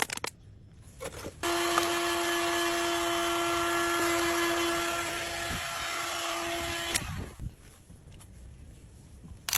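Small electric power tool switched on, running steadily for about five and a half seconds, then switched off, with a few clicks around it.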